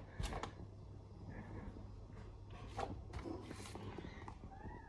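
Packs of fireworks being handled and moved about: a few soft knocks and rustles, faint under a low background hum.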